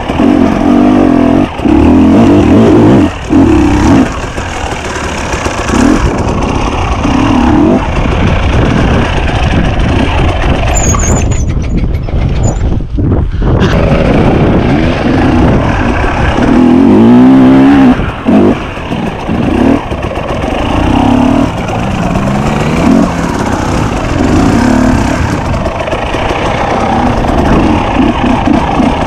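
Enduro motorcycle engine ridden off-road, its revs rising and falling again and again as the throttle is opened and shut.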